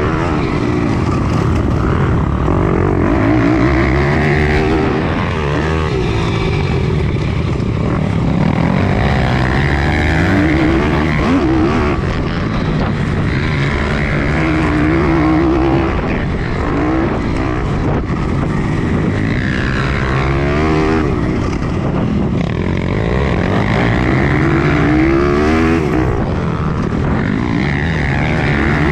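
Pit bike engine racing at full throttle on a dirt track, its revs climbing and dropping again and again through gear changes and corners.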